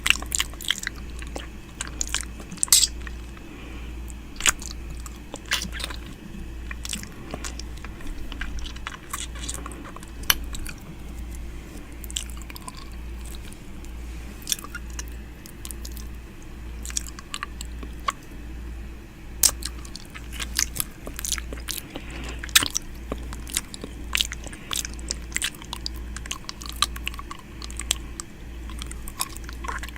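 ASMR 'ear eating' mouth sounds close to the microphone: irregular wet clicks, smacks and nibbling sounds. A low throb repeats a little faster than once a second underneath.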